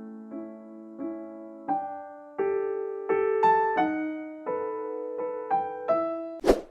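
Piano or electric keyboard playing a simple melody one note at a time, with a sharp knock just before the end.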